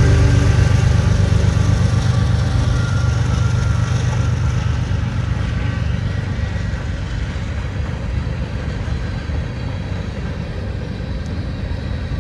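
CSX freight train passing close by: the engine drone of the trailing diesel locomotives fades over the first few seconds, giving way to the steady rolling noise of empty gondola cars going past, slowly getting quieter.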